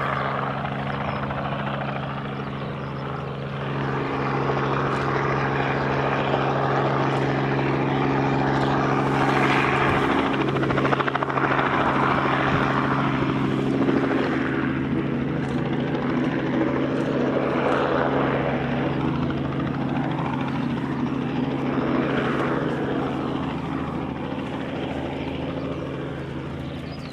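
A helicopter running close by, its turbine and rotor giving a steady drone that swells and ebbs. It grows louder about four seconds in and fades away near the end.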